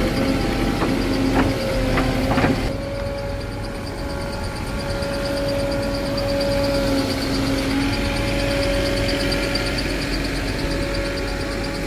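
Diesel engine of heavy machinery running at a steady speed, with a few sharp knocks in the first couple of seconds.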